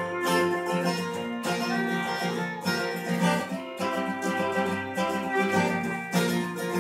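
Acoustic guitar music with no singing: chords strummed about once a second with picked notes ringing between them, in a country-folk song's instrumental passage.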